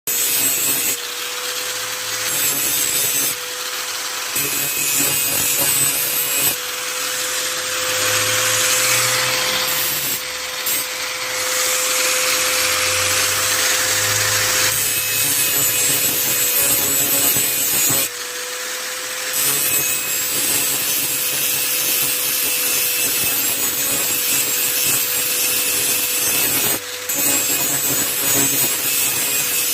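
Electric angle grinder running with a steady whine, its disc grinding the edge of a brush cutter blade to sharpen it. The grinding noise swells and eases as the disc is pressed on and lifted, with a few short breaks.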